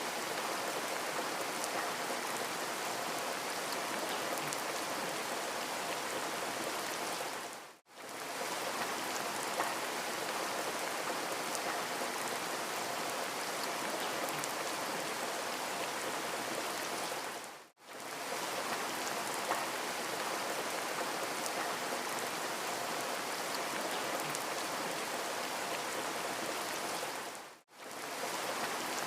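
Steady rain falling, an even patter of drops. The recording dips briefly to silence about every ten seconds, three times, where the loop restarts.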